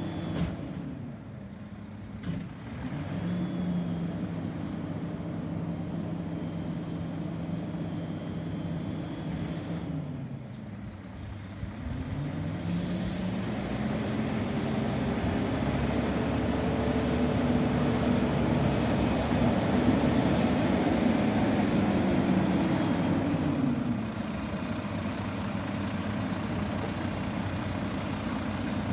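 Garbage truck engine revving up and dropping back twice, with a brief click near the start.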